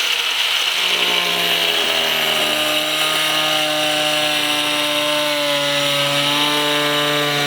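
Power tool cutting holes into a car hood: a steady grinding hiss with a high whine.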